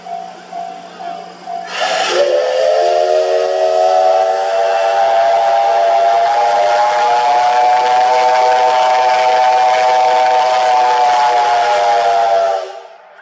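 Steam whistle of the C57 1 steam locomotive blown in one long blast of about ten seconds: a chord of several tones that slides up a little as it opens, with steam hissing. It starts with a burst of steam about two seconds in and cuts off shortly before the end.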